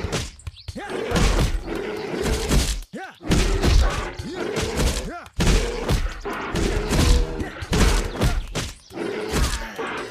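A run of heavy thuds and crashes, about one a second, with low groaning cries between them that swoop up and down in pitch.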